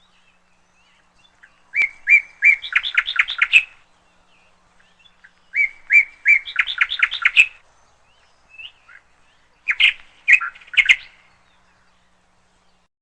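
Caged canary chirping in three short phrases a few seconds apart, each a couple of opening notes followed by a quick run of rapid chirps.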